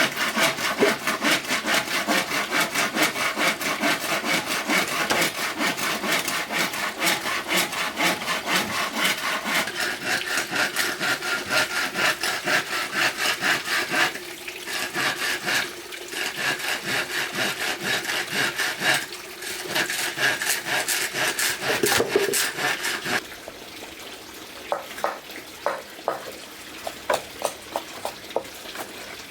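Hand saw cutting through bamboo in quick, even back-and-forth strokes, with two short breaks. The sawing stops about 23 seconds in, and scattered light knocks and clicks follow.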